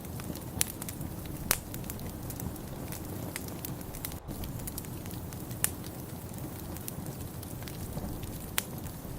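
Wood fire in a fireplace crackling, with a few sharp pops over a steady low rumble.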